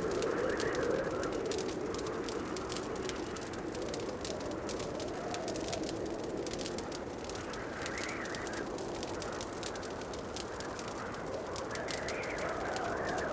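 Wood fire crackling in a fireplace: scattered sharp pops and crackles over a steady low rushing, which swells softly a few times.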